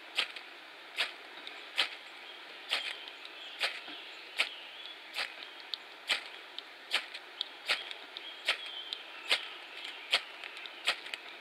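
Ferrocerium rod fire starter struck again and again with a scraper, about fourteen short, sharp scrapes at a steady pace of roughly one every second, throwing sparks to light tinder.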